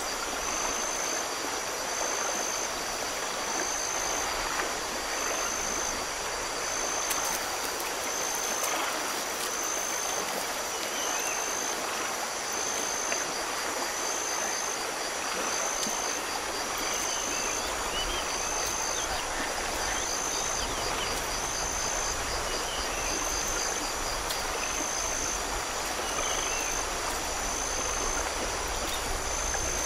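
Steady rushing noise like running water. A faint high tone pulses on and off about every second and a half, and there are a few faint chirps.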